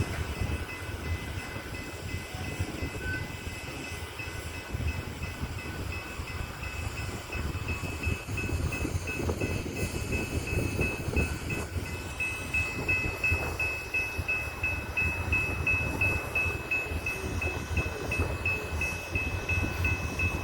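Loaded coal train rolling on the rails with a steady low rumble of the cars. Over it comes a rapid, evenly repeating high ding, about three a second, which gets louder in the second half.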